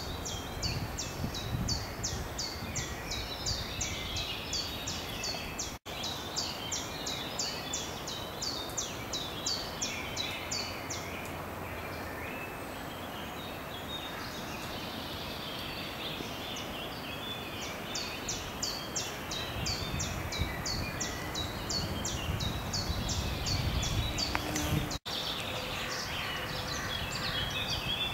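A woodland bird repeats quick, high, falling chirps, several a second, in runs lasting a few seconds, over a low rumble. The sound cuts out for an instant twice.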